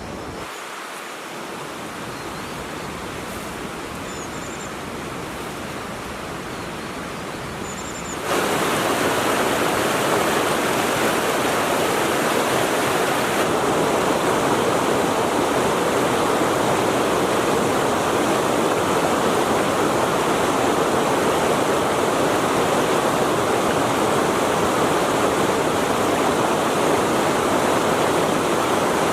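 Steady rush of river water. It is softer at first, with a couple of faint high chirps, then suddenly much louder and fuller about eight seconds in.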